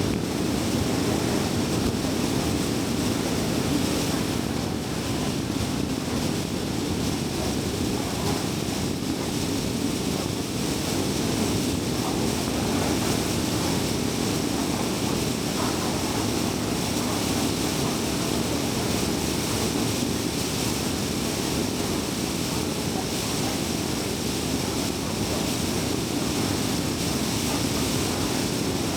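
Steady tyre and road noise of a car cruising on a highway, an even low rush.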